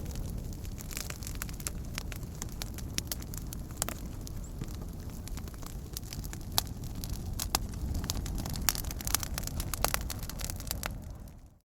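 Wood fire crackling, with frequent sharp pops over a low steady rumble; fades out to silence just before the end.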